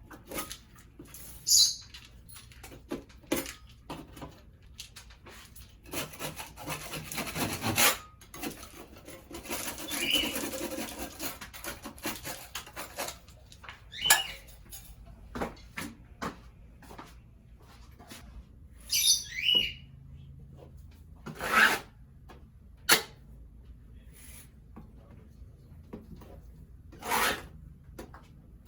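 Intermittent scraping and rubbing from hand-tool work, with sharp knocks and clicks in between. There are two longer stretches of scraping in the first half and a couple of brief squeaks about two-thirds of the way through.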